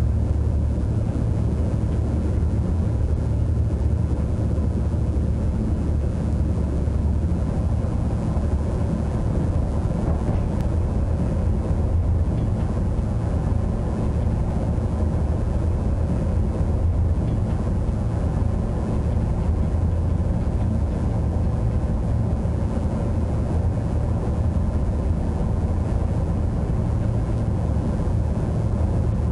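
Steady low rumble of a train running at speed, heard inside the driving cab: the traction motor and the wheels on the rails.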